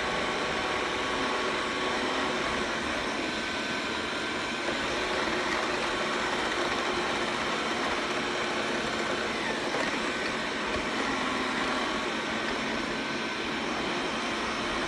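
Xiaomi robot vacuum cleaner running steadily: a constant whir from its suction fan and brushes with a faint steady whine.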